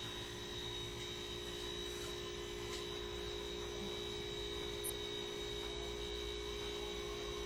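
Steady electrical hum with a faint constant high tone, unchanging throughout.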